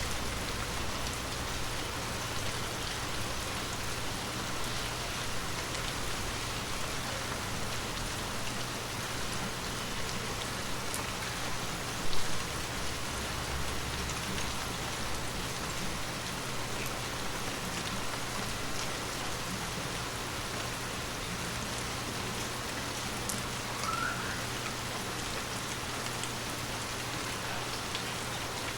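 Heavy rain falling steadily, a dense even hiss of drops on hard surfaces, with a brief louder low thump about twelve seconds in.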